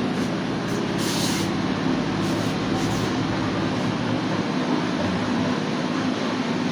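Steady mechanical background noise with a low hum, and a brief hiss about a second in.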